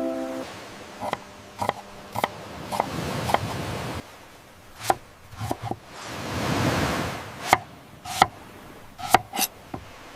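Knife chopping on a cutting board: about a dozen sharp, irregularly spaced strokes. Midway a rushing noise swells and fades away.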